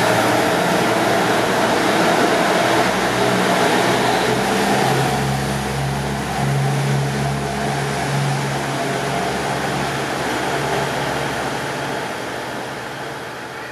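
Diesel railcar moving along the platform, its engine running with a steady low note over wheel and rail noise, fading away near the end.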